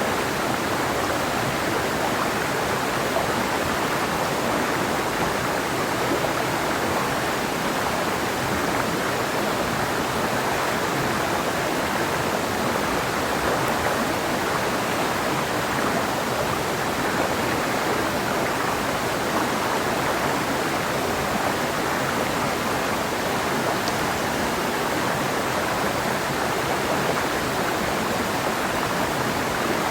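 Clear mountain river flowing over rocks: a steady rush of water.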